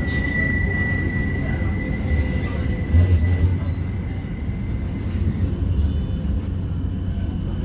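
Inside a CAF Urbos 3 tram running between stops: a steady low rumble of wheels on rail, with a steady high whine that stops about five and a half seconds in, and a louder low bump about three seconds in.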